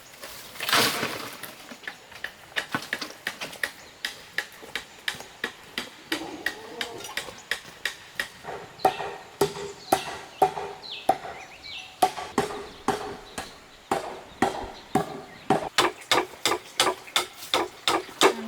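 Repeated chopping strikes, a blade hitting wood, about two to three a second and coming faster near the end, with a louder scraping burst about a second in.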